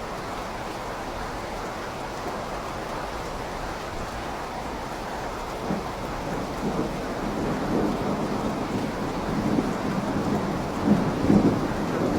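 Steady rain falling, with thunder rumbling in about halfway through and growing louder, with its strongest peals near the end.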